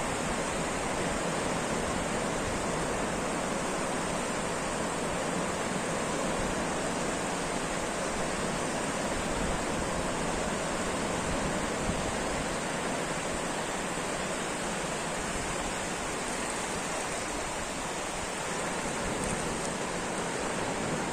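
Ocean surf heard as a steady, even rush of water noise, with no separate wave crashes standing out.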